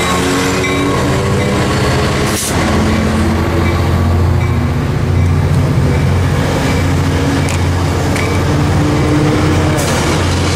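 Metrolink commuter train passing close by: the diesel locomotive's engine sets a steady low drone, with the bilevel coaches rolling behind it. Two sharp knocks come about two seconds in and near the end.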